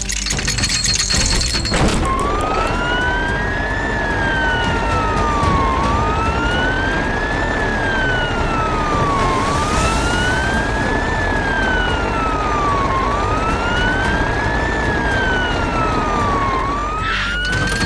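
Fire truck siren wailing slowly up and down, about one rise and fall every three and a half seconds, starting about two seconds in over a steady noisy rumble.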